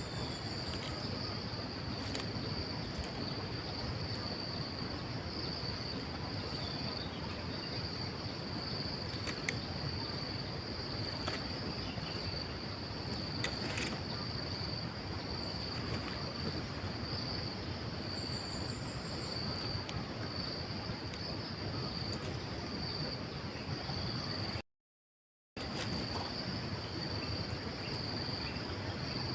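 Steady high-pitched insect chorus over outdoor background noise, with a couple of faint short chirps. The sound cuts out completely for about a second near the end.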